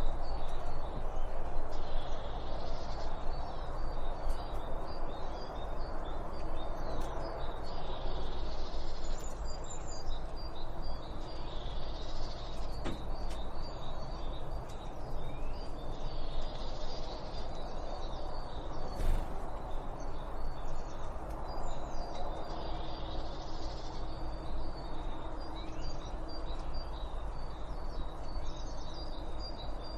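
Songbirds chirping and calling, a continuous stream of short high chirps from several birds over a steady low background rumble.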